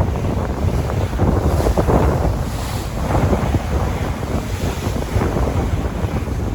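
Sea waves washing in and out, with strong wind buffeting the microphone; a steady rushing roar that swells and surges every second or so.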